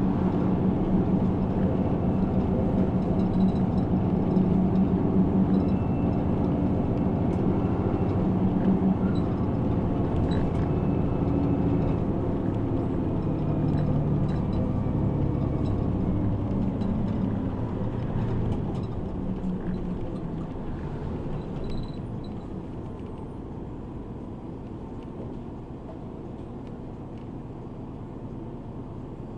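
City bus engine and road noise heard from inside the cabin while under way. About two-thirds of the way in it slows and the sound falls away, settling to a quieter, steady run near the end.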